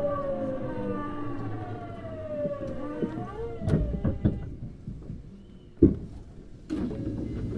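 Hitachi GTO-VVVF traction inverter and motors of a Tokyu Series 9000 train whining in several tones that fall steadily in pitch as the train slows under braking, fading out about three and a half seconds in as it comes to a stop. A few clanks and a sharp knock follow near the end.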